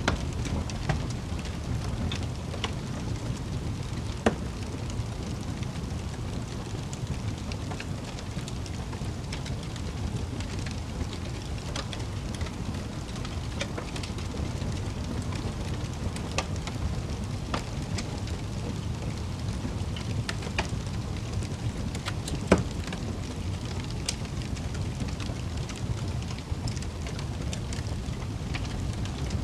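Wood fire crackling in a fireplace: a steady low rumble of flames with scattered sharp pops and snaps, the loudest about 22 seconds in.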